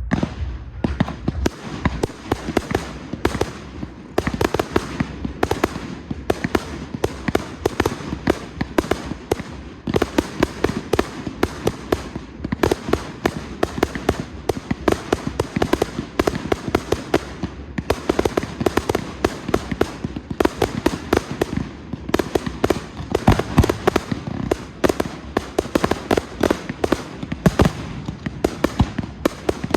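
Fireworks display going off in a dense, continuous barrage: rapid bangs and crackling, many reports a second without a pause.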